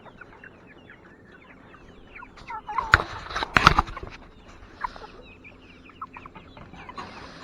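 Chickens clucking and calling, many short falling calls overlapping, while they peck at food. A few sharp knocks stand out around three seconds in.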